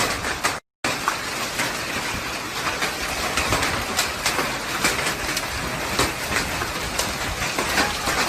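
Heavy rain pouring down, a dense hiss full of sharp drop hits.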